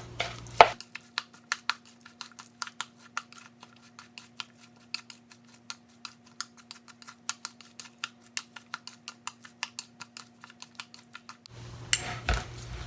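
Rapid light clicks, roughly five a second, of a utensil knocking against a bowl while a burdock and cucumber salad is mixed, over a faint steady hum.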